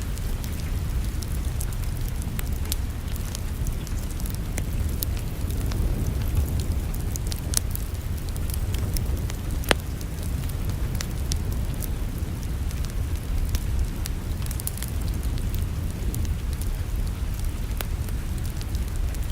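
Wood fire crackling in a fireplace: scattered sharp pops and snaps over a steady low rumble, with one louder pop about ten seconds in.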